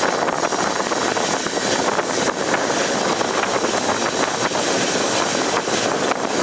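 A moving passenger train's coaches rolling over the track, heard as a steady rushing noise with faint clicks, mixed with wind on a microphone held out of a coach window.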